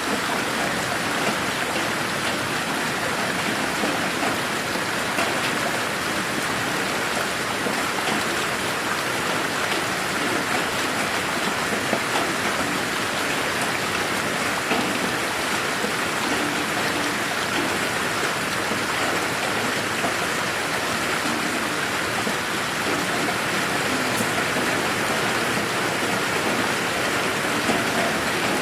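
Steady rain falling in a garden, an even hiss of many small drops landing, with no thunder.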